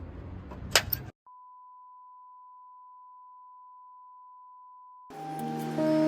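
A steady, pure electronic beep tone held for about four seconds, like a test tone, after a brief stretch of noise with a few sharp clicks that cuts off suddenly. Music with held keyboard notes comes in as the tone stops and grows louder near the end.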